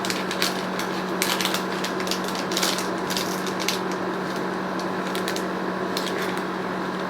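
Scattered light clicks and rustles of a small item and its packaging being handled, over a steady electrical hum.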